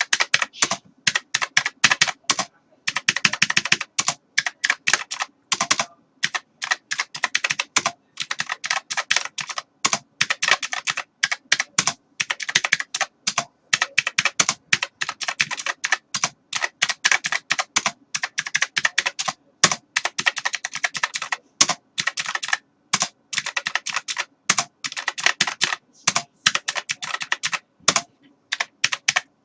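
Typing on a computer keyboard: fast, continuous key clicks in quick runs, broken by short pauses.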